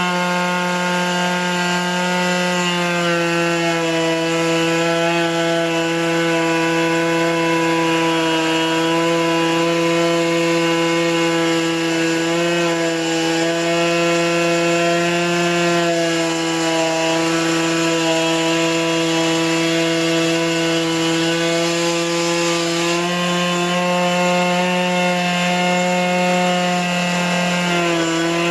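Two-stroke chainsaw running steadily at high revs under load, ripping lengthwise through a log in a Logosol chainsaw mill. The engine note dips slightly a few seconds in, rises again later and dips once more near the end as the cutting load changes.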